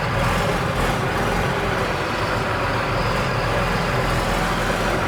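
Large diesel engine of a heavy tractor or truck running steadily, a low even drone with no change in speed.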